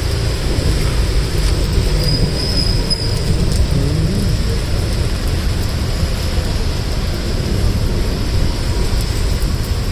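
Rain falling steadily, with a deep rumble underneath.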